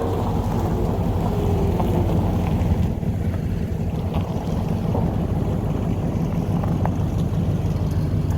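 Car engine running steadily, a low even hum, with some wind on the microphone.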